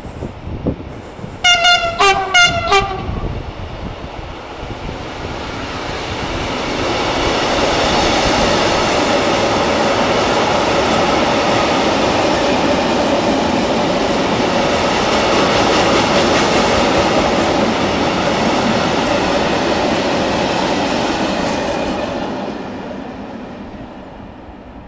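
Train horn giving a few short blasts, then a train passing: the sound builds, holds steady and loud for about fifteen seconds with a mix of noise and steady tones, and fades away near the end.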